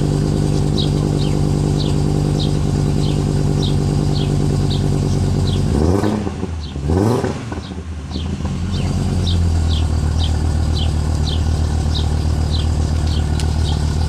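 Volkswagen Golf IV's 2.3 V5 five-cylinder engine running at a raised cold-start idle, revved twice briefly about six seconds in, then settling to a lower steady idle. A faint high chirp repeats about every half second.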